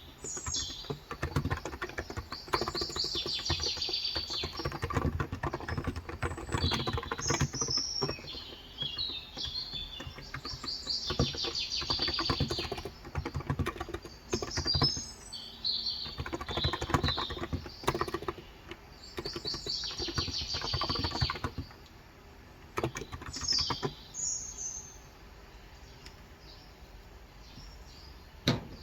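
Typing on a Cox Endeavor tenkeyless keyboard with 35 g electro-capacitive (Topre-style) switches: fast, steady keystrokes for about twenty seconds, then only a few scattered ones. Birds sing throughout in short, high, trilled phrases.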